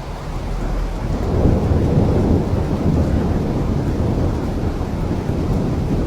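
Steady rain with a deep, rolling rumble of thunder that swells about a second in and keeps going.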